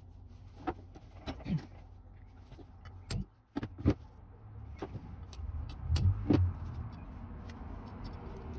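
Irregular metallic clicks and knocks from hand tools and loose parts while the valves are taken out of a Mazda Miata cylinder head, with the loudest knocks about four and six seconds in.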